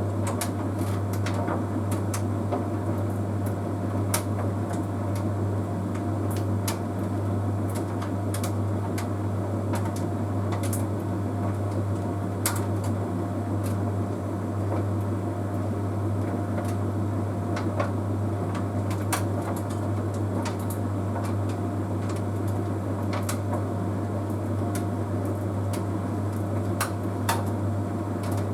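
Bosch Series 6 WQG245R9GB heat pump tumble dryer running mid-cycle: a steady low hum from the machine, with irregular light clicks and taps as the load tumbles in the drum.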